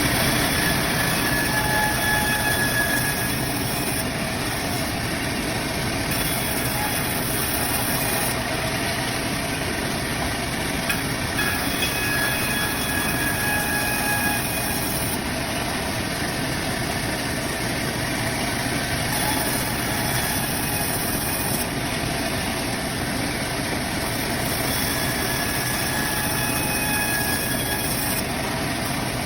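Sawmill band saw running steadily as it saws through a log, with a thin high whine coming and going.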